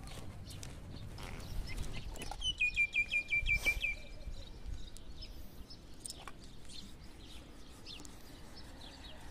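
Bird calling: a quick run of about nine high, evenly repeated chirps lasting about a second and a half, a couple of seconds in, with scattered faint single chirps around it.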